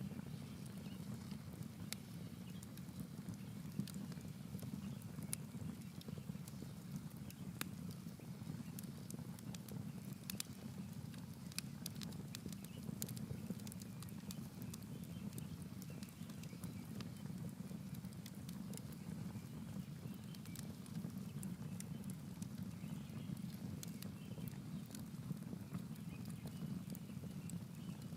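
Campfire burning, the wood crackling with frequent irregular sharp pops over a steady low rumble.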